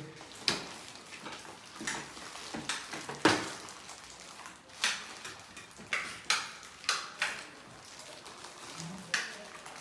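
A string of irregular sharp knocks and clinks from hard objects being handled, about a dozen, the loudest a little over three seconds in.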